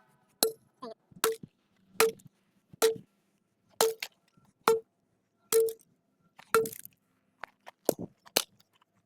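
Hammer blows on a microwave oven's metal casing: about a dozen sharp strikes, roughly one a second, each leaving a brief metallic ring.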